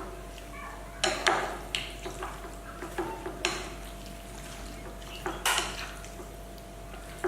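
Chopped chicken being stirred with seasonings in a bowl to marinate, a utensil clinking and knocking against the bowl at irregular moments.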